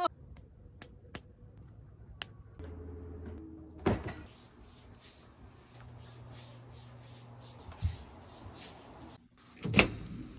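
A few light clicks, then dull thumps over a faint low hum. The loudest thump comes near the end, like something being shut or set down.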